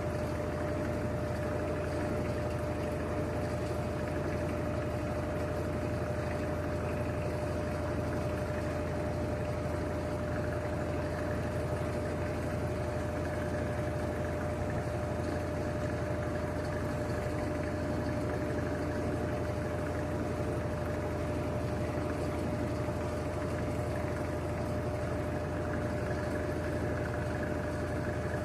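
Electrolux LTD13 washing machine on its spin cycle with a load of curtains, its motor and drum running at a steady speed: an even hum with a constant whine over it.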